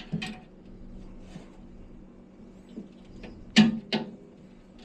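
Tension ring clips on a boiler being worked by hand: scattered small metal clicks, then two sharp clicks close together about three and a half seconds in.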